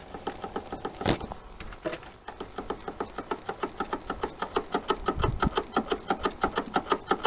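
Rapid, even ticking knock from the engine bay of a Lada Vesta, about seven ticks a second, with one sharper knock about a second in. It is the noise the owner suspects comes from a worn engine mount.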